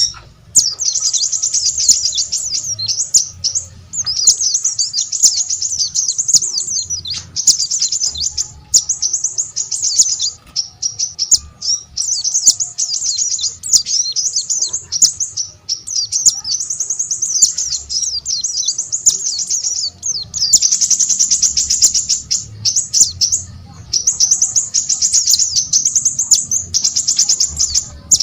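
Small songbird singing long runs of rapid, high twittering phrases, one after another with short breaks.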